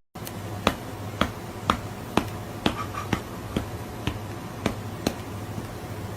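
Sharp clicks at a steady rhythm, about two a second, over a low steady hum.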